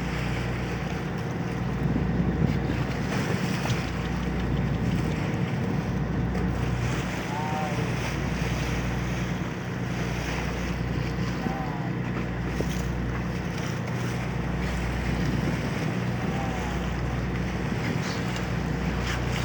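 A boat's engine running steadily, a low hum that dips about every two seconds, with water rushing and splashing against the hull and wind buffeting the microphone.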